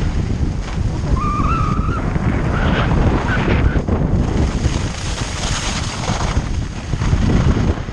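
Wind buffeting the microphone of a skier moving downhill, a steady loud rumble. About a second in there is a brief wavering whistle-like tone. Around the middle a brighter hiss rises.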